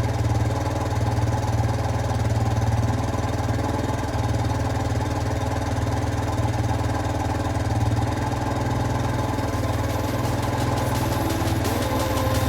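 Jianshe JS200GY's 200cc air-cooled four-stroke engine running steadily, the bike back in running order after its barn-find repairs.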